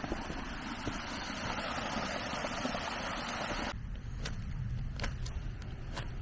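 Suzuki Jimny JA11 driving on a snowy mountain road: a steady rush of tyre and road noise, which about two-thirds of the way through changes abruptly to a lower engine drone with a few sharp clicks.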